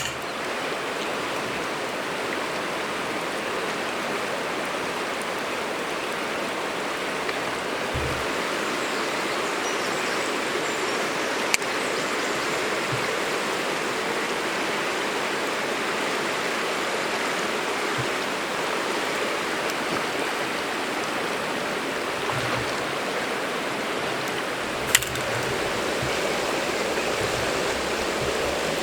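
Steady sizzling of food frying over a campfire, with two sharp pops, one about a third of the way in and one near the end.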